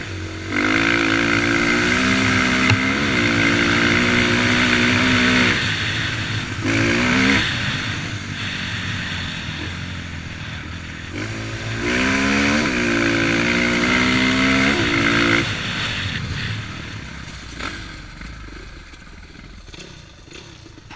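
Motocross dirt bike engines revving hard and changing pitch through gear changes. There are two long loud runs, one starting about half a second in and one at about eleven and a half seconds, plus a short burst near seven seconds. The sound falls away to a fainter engine hum toward the end.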